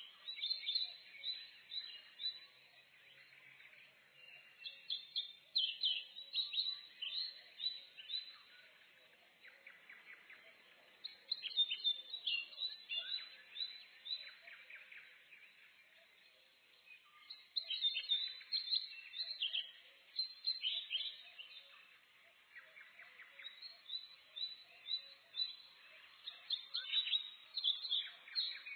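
Songbirds chirping and singing in a morning forest: dense bursts of quick, high chirps and trills that come and go every few seconds, with quieter stretches between.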